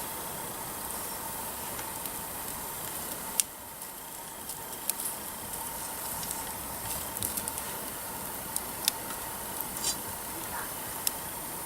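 Wood campfire crackling: scattered sharp pops from the burning firewood, the loudest about three and a half seconds in, over a steady background hiss.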